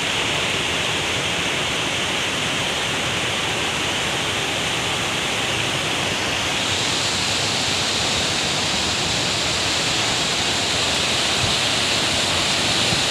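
A river swollen by heavy rain, rushing in flood: a steady noise of fast water that turns brighter and hissier about six and a half seconds in.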